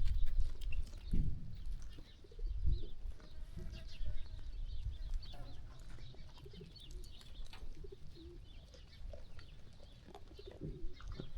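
Farmyard ambience: doves cooing and small birds chirping repeatedly, with low rumbling in the first few seconds and again near the end.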